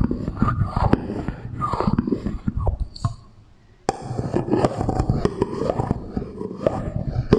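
Close-miked ASMR object sounds with an added echo: dense, irregular clicks and scrapes that stop for about a second midway, then start again.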